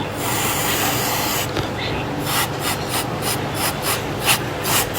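Repeated rubbing strokes, about three a second in the second half, after a steadier stretch of rubbing noise.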